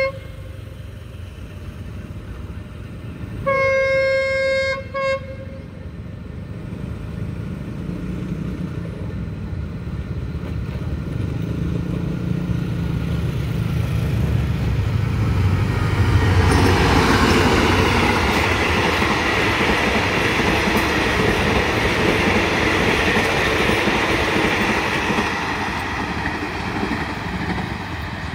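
CRRC Qishuyan diesel locomotive sounds its horn about 3.5 s in, one blast of about a second and a half followed by a short toot. Its engine rumble then grows as it approaches, and from about halfway the train passes with loud wheel and carriage noise that slowly fades near the end.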